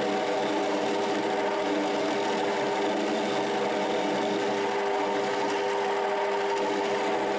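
Rotwerk 7x14 mini lathe running at a steady speed, its motor and gear train giving an even whine.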